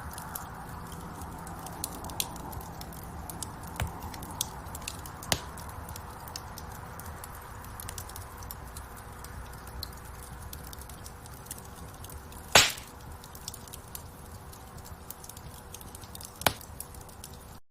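Wood fire crackling in a fireplace: a steady soft rush of flames under frequent sharp crackles and pops, with one loud pop about two-thirds of the way through and another near the end. The sound cuts off suddenly at the very end.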